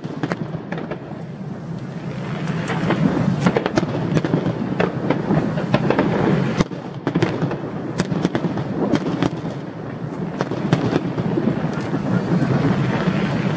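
Aerial fireworks bursting in a dense barrage: many sharp cracks and bangs over a continuous low rumble of launches and explosions, with a brief dip about two-thirds of the way through.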